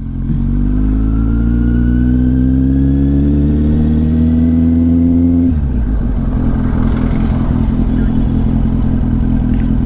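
Kawasaki Z800's inline-four engine accelerating, its pitch rising steadily for about five seconds. About halfway through it drops suddenly to a lower pitch and runs on steadily.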